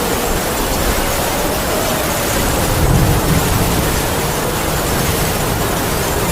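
Heavy rain falling steadily with a howling wind, its faint wavering whine running under the hiss of the rain. A low swell rises briefly about three seconds in.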